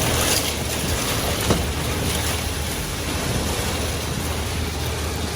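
Diesel engine of a concrete boom pump truck running steadily under a constant hiss, with one light knock about a second and a half in.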